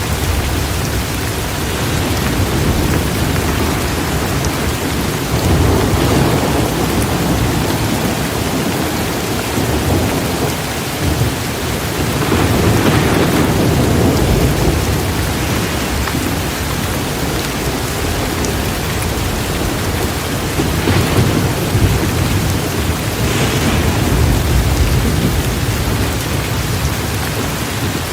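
Heavy, steady rain pouring down in a thunderstorm, with low rolls of thunder swelling and fading several times.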